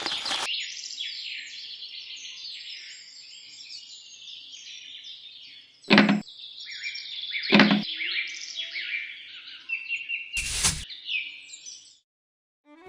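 A flock of small birds chirping and twittering continuously. Two sharp knocks come about six and seven and a half seconds in, and a short hiss burst near the end.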